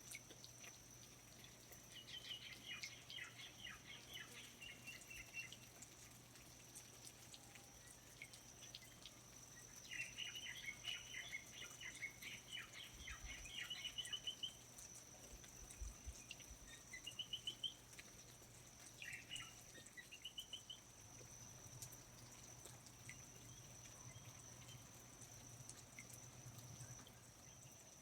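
Faint rainforest ambience: birds singing in four short bursts of quick chirping notes over a steady high-pitched insect drone.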